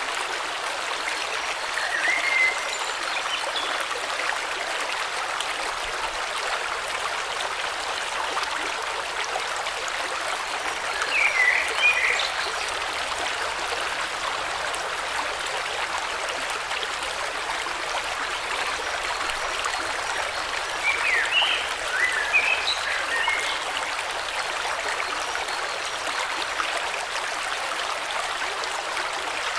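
Steady rushing of a flowing river, with short bursts of bird chirps three times: a few seconds in, near the middle, and about two-thirds through.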